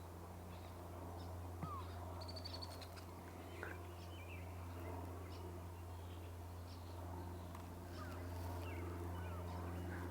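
Scattered faint bird chirps and short calls, with a brief high trill about two seconds in, over a steady low hum.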